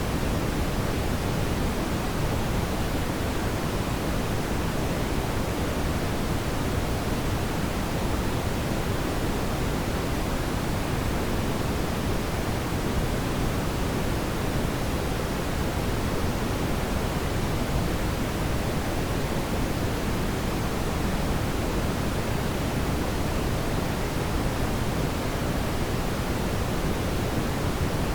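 Steady brown noise: a deep, even hiss with most of its weight in the low end, unchanging throughout.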